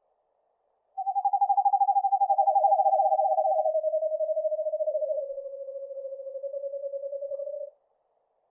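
Eastern screech owl giving its long trill: a rapid, even, pulsed trill lasting about seven seconds, starting about a second in and dropping slightly in pitch in steps as it goes.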